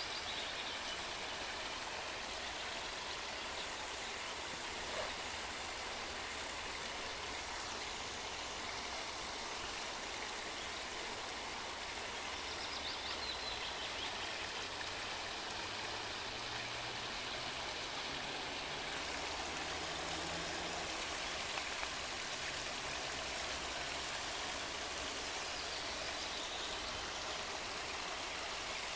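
Forest stream running steadily, a continuous even rush of flowing water.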